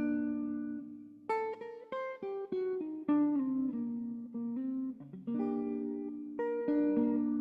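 Acoustic guitar playing an instrumental passage: a held chord dies away, then from about a second in a run of picked notes and chords.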